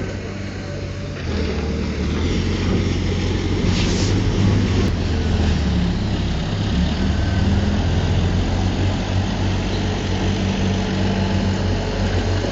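Diesel engine of heavy earthmoving machinery running steadily, a low even drone, with a brief hiss about four seconds in.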